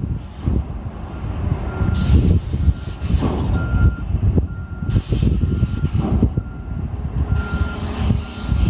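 Dump truck backing up: its backup alarm beeps steadily about once a second over the loud rumble of its diesel engine. Three short hisses of air come through along the way.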